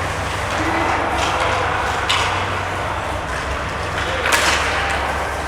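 Ice hockey game sound in a rink: a steady wash of crowd and arena noise, broken by a few sharp scrapes and clacks from skates, sticks and puck on the ice, the longest about four seconds in.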